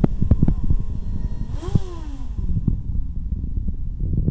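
Small motorcycle engine running at idle, firing unevenly with irregular pops, with one quick throttle blip about a second and a half in.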